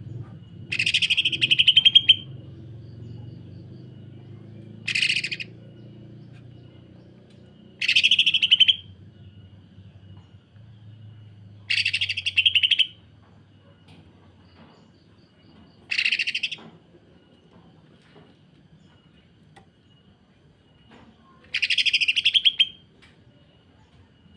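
Cucak ijo (green leafbird) giving six short, harsh rapid-fire rattling bursts a few seconds apart: the dense, rough 'sewing machine' call.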